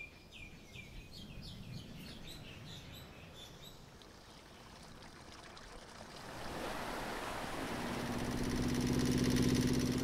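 Small birds chirping in quick, repeated falling calls for the first few seconds. Then a wash of surf and wind builds, and about eight seconds in a motorboat's engine hum comes in, the loudest sound, peaking just before the end.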